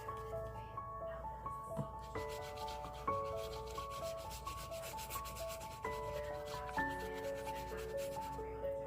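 Rapid rubbing strokes on paper, starting about two seconds in and stopping just before the end, over soft background music with sustained notes.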